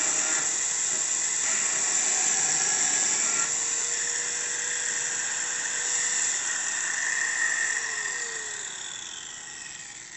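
Electric angle grinder sharpening a steel mower blade: a steady, high-pitched grinding hiss. About eight seconds in the grinder is switched off and its tone falls as it spins down.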